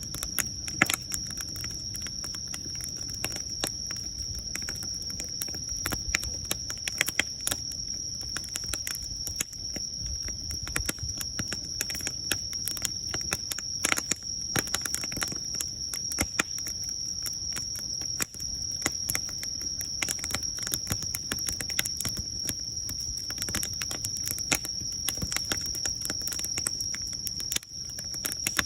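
Wood fire crackling, with dense irregular snaps and a few louder pops over a low rumble of flame. A steady high-pitched tone sits behind it.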